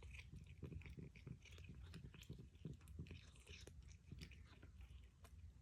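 Melanistic Bengal cat chewing its food: faint, quick clicks and crunches of its teeth, mixed with small mouth noises as it eats.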